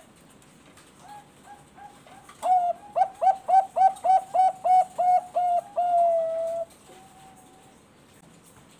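Zebra dove (perkutut bangkok) singing. A few soft coos lead into a quick run of about a dozen loud, staccato coos, which ends in one longer drawn-out note.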